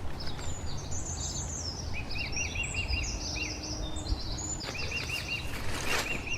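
Small songbirds chirping and calling, with one bird giving a quick run of short repeated notes twice, once about two seconds in and again near five seconds, over a steady low outdoor rumble.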